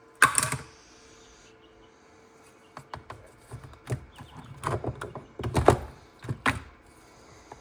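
Metal parts of a cut-open torque converter being handled. A loud clank just after the start rings briefly, then a run of lighter knocks and clicks follows in the middle.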